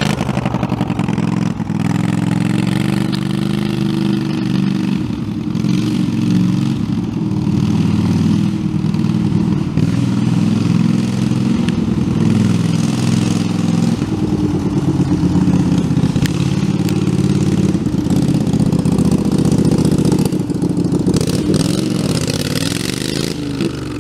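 Homemade belt-driven tractor's engine running under load and being revved, its pitch rising and falling repeatedly as it drives.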